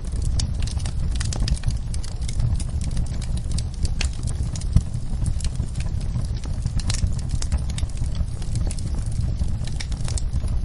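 Wood fire crackling in a fireplace, with frequent irregular pops and snaps over a steady low rumble of the flames.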